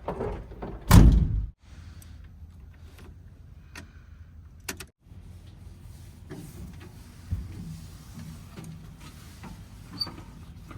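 Heavy diesel machinery running steadily, with one loud heavy thud about a second in and a few lighter knocks later; the sound cuts out abruptly for a moment near the middle.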